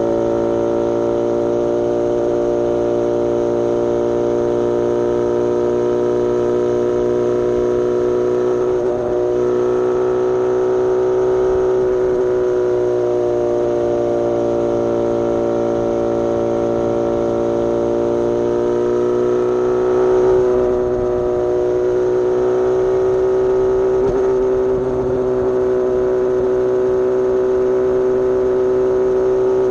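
Suzuki GSX-S750's inline-four engine running through a Coffman's aftermarket exhaust while riding at a fairly steady pace, its pitch dipping and rising again a few times.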